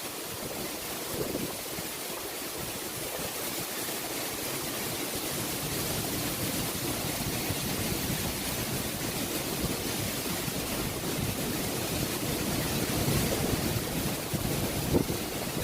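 Typhoon wind and driving rain, a steady rushing noise that grows a little louder toward the end, with gusts buffeting the microphone.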